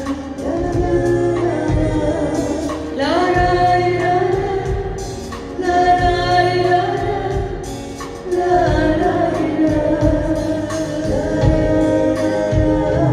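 Live band music with a woman singing long, held notes.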